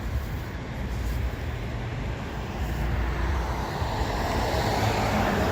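Baltimore Metro Subway railcars running, a rumbling noise that grows steadily louder through the second half as the train draws nearer, with a faint steady tone near the end.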